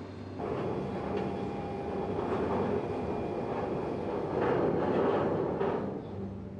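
Roller coaster train running along its track: a rumbling noise that comes up sharply just under half a second in and swells twice as the train passes.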